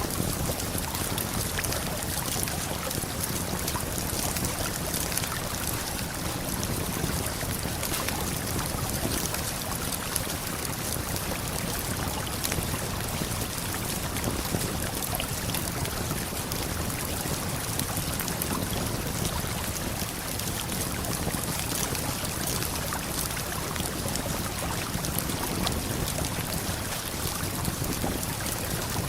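Steady rushing of a flowing river and waterfall, a constant even wash of water noise.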